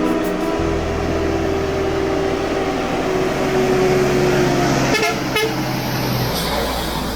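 Euro 4 truck fitted with a racing exhaust muffler, its engine running with a steady low drone, while a horn-like tone sounds in the first half. Two short clicks come about five seconds in.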